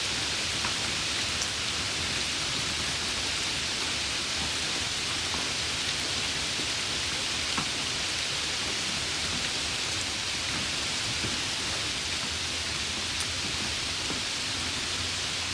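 Steady rain falling: an even hiss with now and then a single drop ticking, the loudest of them about halfway through.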